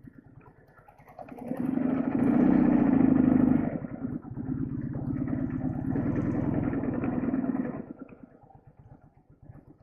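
Flat-twin Soviet motorcycle engine running under throttle: it swells up about a second in, eases off briefly near four seconds, like a gear change, pulls again, then dies away near eight seconds.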